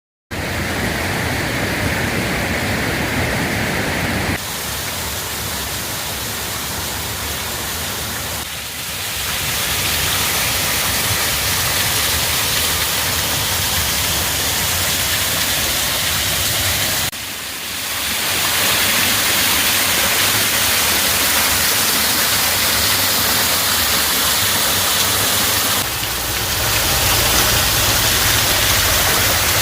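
Waterfall rushing: a steady, loud wash of falling water that shifts in level a few times, with brief dips about a third and about halfway through.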